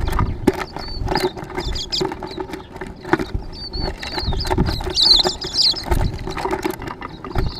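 Small birds chirping and twittering in short calls, with many sharp taps and knocks and a low steady hum underneath.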